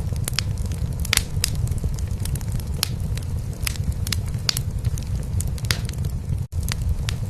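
A cat purring in a low, steady rumble, laid over a wood fire crackling and popping in a fireplace. The sound cuts out for an instant about six and a half seconds in.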